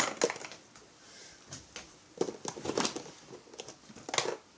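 Light clicks, taps and rustles of small parts and tools being handled on a workbench, in a few scattered bursts with quiet gaps between.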